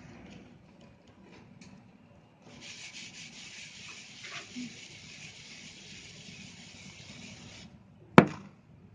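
Dried red sand shapes being crumbled. Scattered faint crackles give way about two and a half seconds in to a steady gritty rubbing hiss that lasts about five seconds. Near the end comes one sharp, loud crack, the loudest sound.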